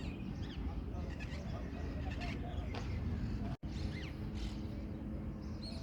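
Indian ringneck parakeets calling in a run of short, quick, gliding chirps and squawks, over a steady low rumble. The sound cuts out for an instant a little past halfway.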